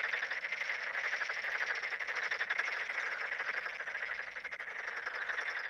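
Frog calling: a continuous, rapidly pulsing croak that tails off near the end.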